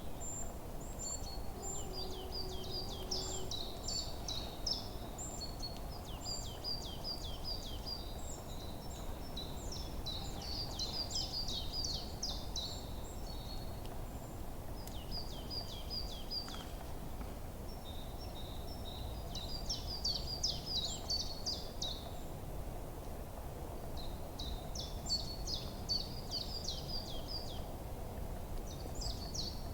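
Forest ambience: small songbirds chirping and twittering in quick, high-pitched bouts that come and go, over a steady low background rumble.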